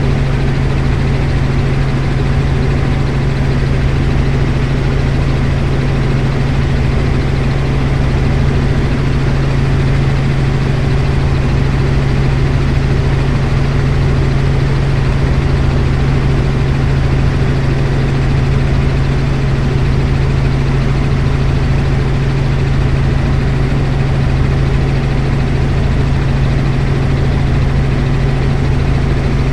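Helicopter in flight: a loud, steady drone of engine and rotor with a faint regular pulsing underneath, unchanging throughout.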